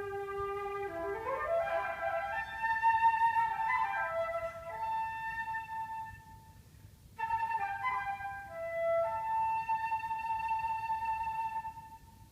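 Solo flute playing: a low held note that sweeps up in a fast run to a long high note, then, after a short pause, a second phrase that settles on another long held high note.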